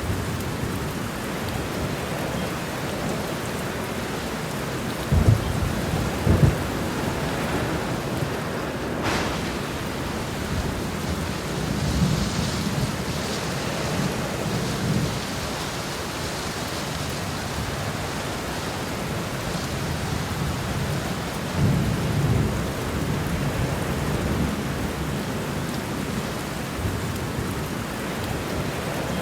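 Heavy rain falling steadily through a thunderstorm. Thunder rumbles low several times over it, with two sharp cracks about five and six seconds in and longer rolls around twelve to fifteen and twenty-two seconds in.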